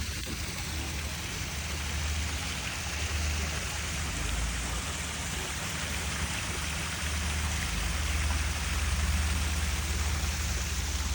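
Steady rushing noise with a low rumble beneath it, even throughout.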